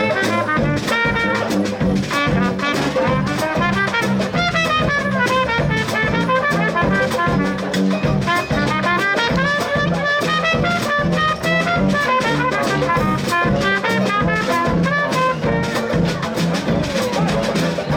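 Swing band playing, with a brass section of trumpets and trombones over a steady beat from the bass and drum kit.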